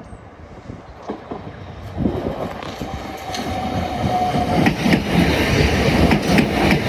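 Southeastern electric multiple-unit train approaching and growing steadily louder, its wheels clicking over rail joints.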